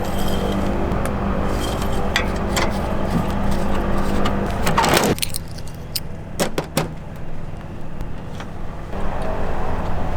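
A motor hums steadily and cuts out about five seconds in. Scattered clicks and knocks follow, and a hum comes back near the end.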